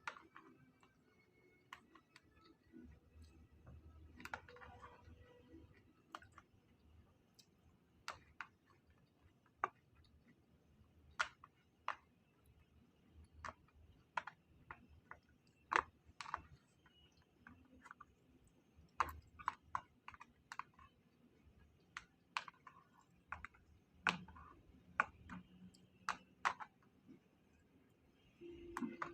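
Faint, irregular light clicks and taps of eating utensils against dishes and food containers while eating, a few sharper than the rest.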